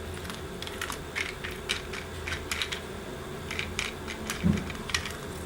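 Light, irregular clicks and taps of a metal watch bracelet and link remover tool being handled, with one duller thump about four and a half seconds in.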